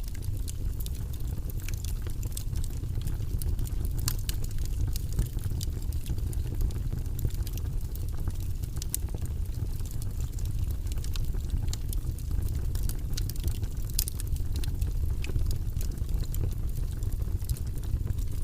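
Wood fire crackling, with frequent small sharp pops scattered irregularly over a steady low rumble.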